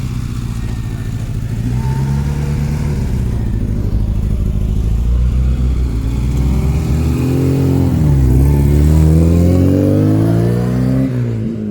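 A vehicle engine running and being revved: steady at first, then its pitch climbs from about six seconds in, dips briefly, and climbs steadily again before dropping away near the end.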